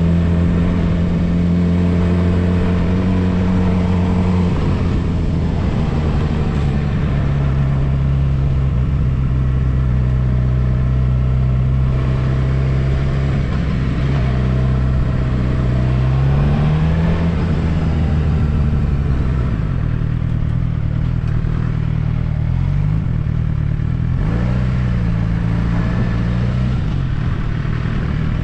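Suzuki GSX-R750 inline-four engine running at moderate, fairly steady revs while riding, its pitch stepping down about four seconds in and rising and falling a few times later, over wind and road noise.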